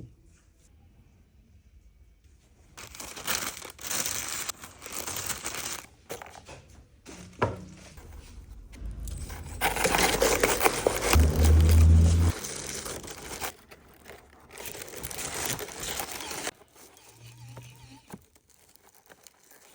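Dry material crumpled and handled in several bursts of crinkling and crackling, with a deep thud about eleven seconds in.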